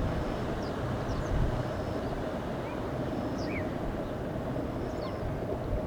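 Small birds giving short, high call notes, scattered several times, over a steady background noise.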